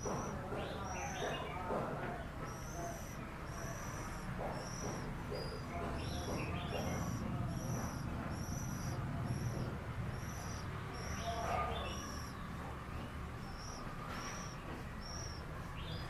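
Oriental magpie-robins calling: a steady series of short, high notes, about two a second, mixed with scattered lower chirps. A low background rumble runs underneath.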